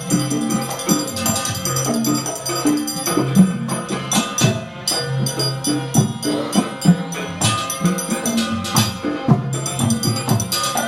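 Live Gandrung music from Banyuwangi played by a traditional ensemble: quick percussion strikes over a repeating pattern of low pitched notes.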